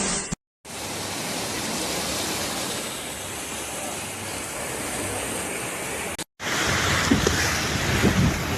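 Steady rushing noise, broken twice by abrupt dropouts to silence at clip cuts; after the second cut it is louder, with a few low thumps.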